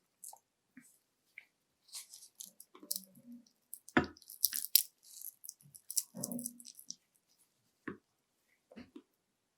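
Close-miked chewing of panko-breaded fried shrimp: soft wet mouth sounds with a sharp crunch of the crisp coating about four seconds in, then a few faint ticks near the end.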